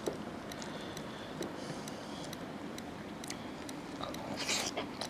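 Close-miked eating sounds: soft chewing and mouth clicks as a man bites into paratha scooped through mushroom gravy, with one short, louder mouth sound about four and a half seconds in.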